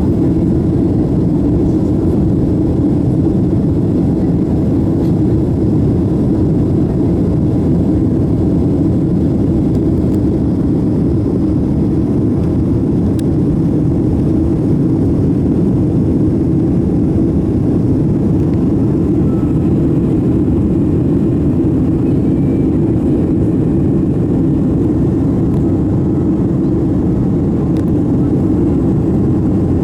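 Boeing 767-300 jet engines and rushing air heard inside the passenger cabin as a steady, deep drone that does not change.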